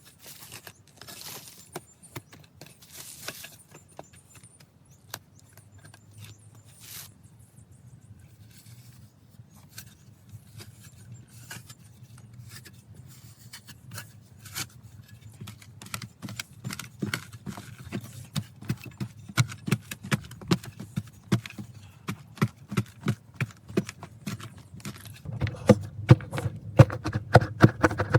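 Hand work with tools: a run of short knocks and scrapes that grows busier and louder, turning into fast rhythmic strokes near the end.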